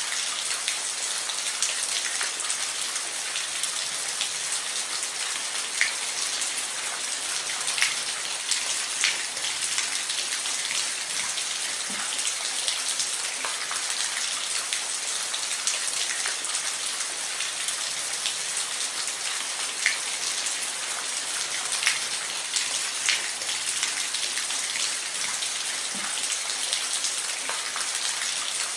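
Steady rain falling on a roof, an even hiss with scattered louder individual drops tapping.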